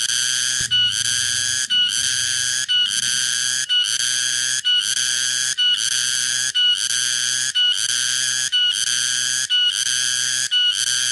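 Tonggeret cicada's loud, shrill buzzing call, running in even phrases of about a second each, separated by short breaks in a steady rhythm.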